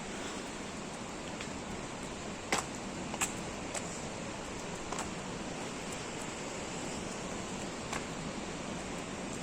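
Steady outdoor background noise with a handful of sharp clicks at irregular spacing, the loudest about two and a half seconds in.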